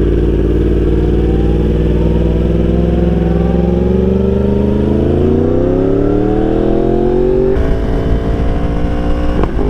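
Yamaha R1 inline-four motorcycle engine under way, holding steady, then revs climbing smoothly in gear before an upshift drops the pitch suddenly about three-quarters of the way through. A short sharp pop comes near the end.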